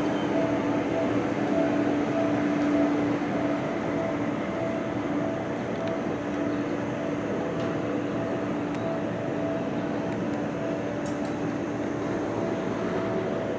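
Yellow Seibu electric commuter train at a station platform, running with a steady electrical hum over its running noise.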